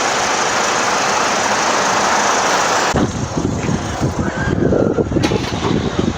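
Steady hiss of road traffic on a wet road, which cuts off abruptly about three seconds in and gives way to low, uneven rumbling.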